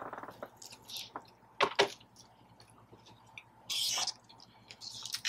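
Close-miked chewing: wet, squishy mouth sounds and small clicks of a person eating, with a short breathy sound about four seconds in.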